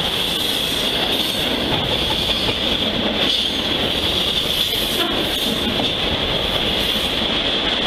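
CSX freight train of autorack cars rolling past close by: steady rumble and clatter of steel wheels on the rails, with a steady high-pitched wheel squeal.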